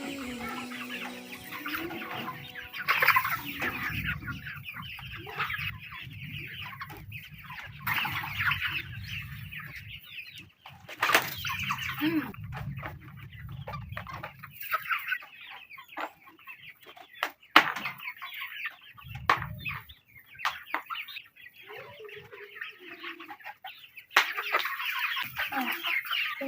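A flock of young layer chickens (pullets) clucking and chattering continuously in their poultry house, with a couple of sharp knocks partway through.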